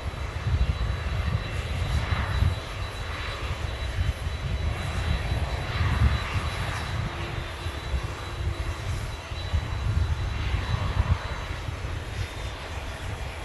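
Airliner jet engines heard from outside the airfield: a deep, rumbling engine noise that swells and fades in uneven gusts, with a faint steady high whine.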